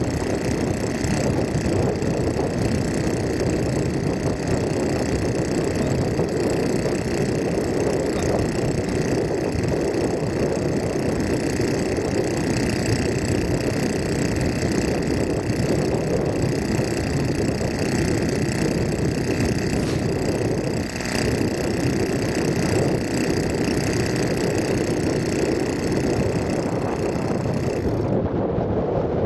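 Tractor engine running steadily under load, a constant low drone with a faint whine over it. The high end drops away abruptly near the end.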